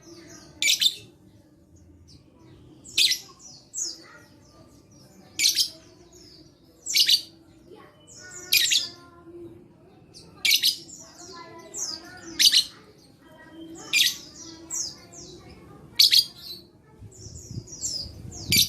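Lovebird calling repeatedly: about every two seconds, a quick run of high chirps falling in pitch ends in a loud, shrill shriek, about ten times.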